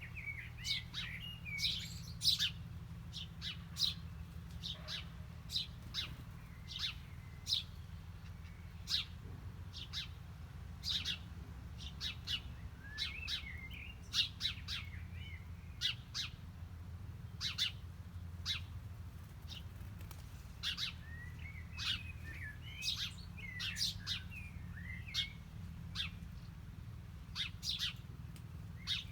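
Small birds chirping: a steady run of short, sharp chirps a few times a second, with some wavering twittering notes in between, over a faint steady low hum.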